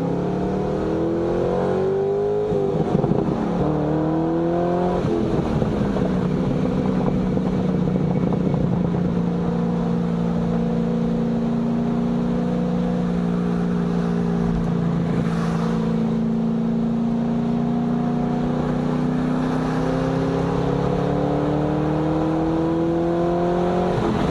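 C6 Corvette's V8 engine, heard from inside the cabin, pulling through the gears. Its pitch rises and drops back twice in the first five seconds as it upshifts, then it settles into a steady drone at highway cruise over road and tyre noise.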